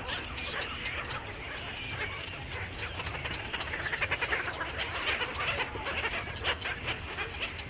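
A flock of birds chirping and calling together, many short overlapping calls at once, growing busier about halfway through.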